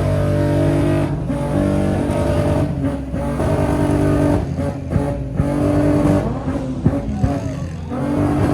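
Car engine revved hard and held at high revs, dropping briefly and climbing again several times, with a couple of sharp pops later on.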